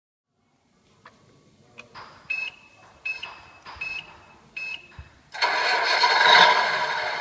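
A 1/14-scale RC Scania R620 truck's sound module plays a simulated diesel engine start. There are a few clicks and four short blips, then about five seconds in the engine starts and settles into a steady run, swelling briefly just after it starts.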